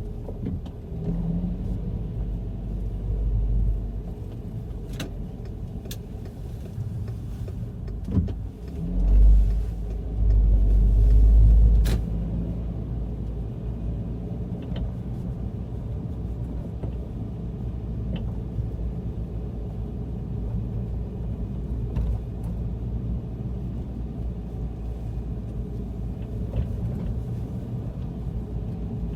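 A VW Golf GTI Mk5 driving with a steady low rumble, swelling louder twice, and a few short sharp clunks scattered through it. This is the clunk the owner has not been able to trace even after replacing the engine and transmission mounts, stabilizer links, suspension and its mounts and bearings, and the CV joint.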